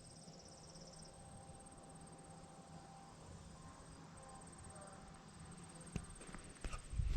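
Insects chirping in rapid, steady high-pitched pulses, faint, with a low hum underneath. A few knocks come near the end.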